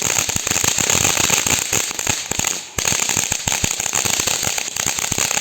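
Consumer firework fountain burning: a steady hiss of spray with dense, fast crackling throughout, briefly dipping nearly three seconds in.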